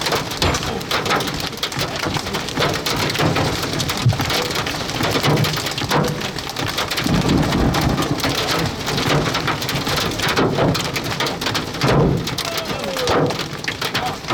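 Large hail and heavy rain pelting a vehicle's body and windshield: a dense, continuous clatter of impacts with no let-up.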